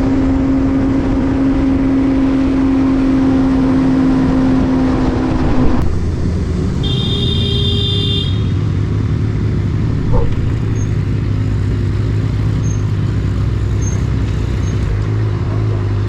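Benelli TNT600i inline-four motorcycle engine running at a steady high note, then dropping to a lower steady note about six seconds in. A brief high-pitched beeping tone comes a second later, and there is a short knock a few seconds after that.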